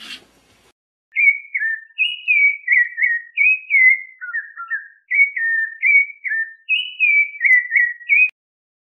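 A bird's whistled song: a long run of clear notes, each slurring down in pitch, many in quick pairs, stopping a little before the end.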